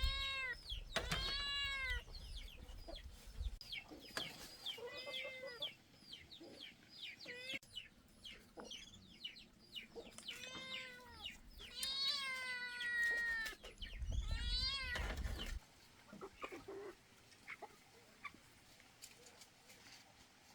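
Repeated short, high animal calls, each one rising and falling in pitch, with quicker chirps in between. The longest and loudest calls come about twelve seconds in, and the calls thin out over the last few seconds.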